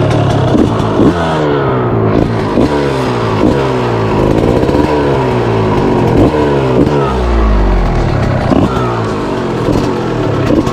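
Motocross dirt bike engine under hard riding, its pitch climbing and dropping back over and over as it is revved up and the throttle is closed or the gear changed.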